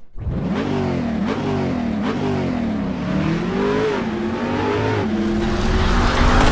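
A vehicle engine revving, its pitch climbing and dropping again and again.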